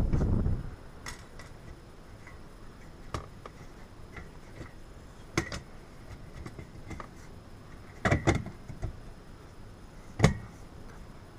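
Scattered light knocks and clicks from handling a metal heater floor register and duct, a rumble of handling noise at the start, a quick pair of knocks about eight seconds in and the loudest knock near the end.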